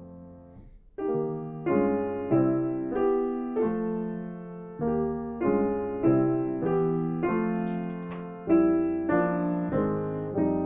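Solo piano music. A held chord dies away, then a new phrase begins about a second in. Chords are struck at a steady slow pace, roughly one every two-thirds of a second, each ringing and fading before the next.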